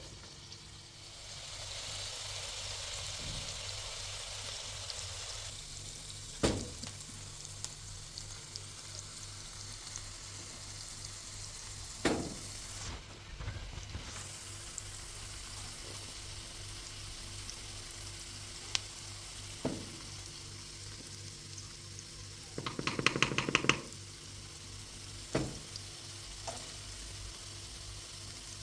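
Food frying in a pan with a steady sizzle, broken by a few sharp knocks of a utensil and a short, rapid rattle near the end.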